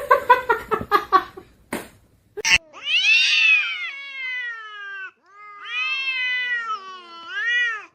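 A domestic cat yowling: three long, drawn-out meows. The first falls slowly in pitch and the last is short and rises then falls. Before them, in the first second and a half, comes a rapid stutter of short sounds, followed by two sharp clicks.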